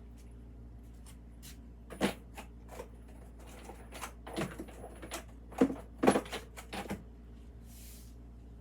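Ceramic kiln posts being lifted out of a kiln and set down: a string of irregular clinks and knocks of kiln furniture against each other and the shelf, the loudest about five and a half to six seconds in, over a steady low hum.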